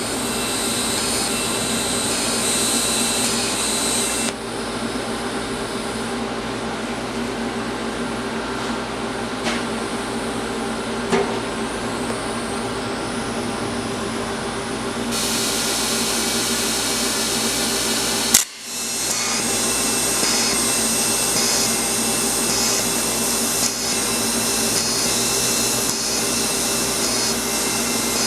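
Steady machine whir and hum from a motor running, with a sudden brief break about two-thirds of the way through.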